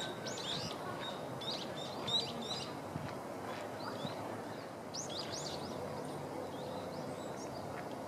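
Small birds chirping: short, high calls that sweep up and down, in quick clusters a few times over a steady low background hiss.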